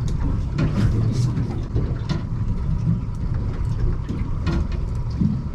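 Fishing boat's engine running steadily with a low rumble, with a few short knocks over it.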